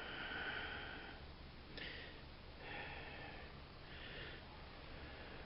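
Faint breaths or sniffs close to the microphone, about four soft puffs in a row.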